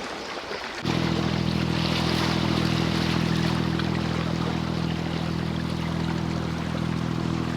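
Boat engine running at a steady speed, a constant low drone that starts abruptly about a second in, over the wash of seawater.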